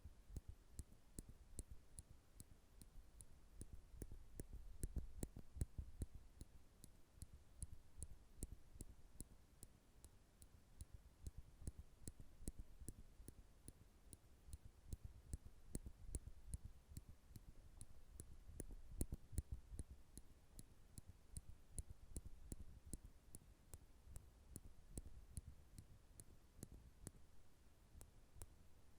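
Soft, sharp clicks of metal nail clippers worked close to the microphone in a steady run, about three clicks a second, over faint low handling sounds.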